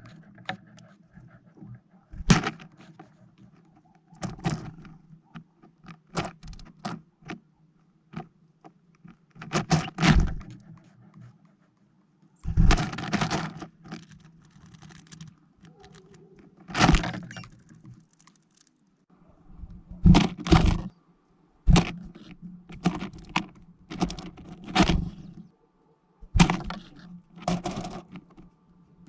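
Irregular tapping and knocking on a plastic-bottle bird feeder, a sharp knock every second or two, as small birds land on it and peck at the seed, over a steady low hum.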